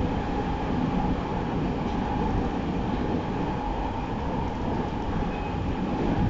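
Interior running noise of a JR East 209 series 3100 subseries electric commuter train travelling at speed, heard inside the carriage: a steady rumble of wheels on track with a steady tone over it.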